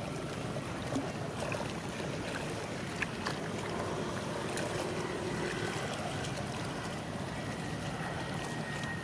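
Steady low outdoor rumble with scattered faint clicks; a faint high whine comes in about halfway through and holds.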